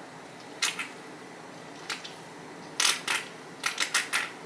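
Crunchy chewing of Flamin' Hot Cheeto-crusted fried chicken: a few separate crisp crunches, then a quick run of crunches near the end.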